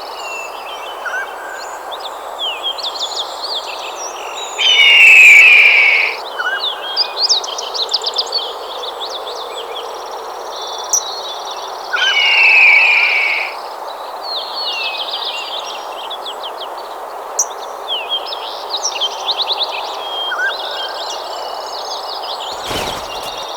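Birds chirping and trilling in many short calls over a steady hiss of forest background. Two much louder calls, each about a second and a half long, come about five and twelve seconds in, and a few knocks sound near the end.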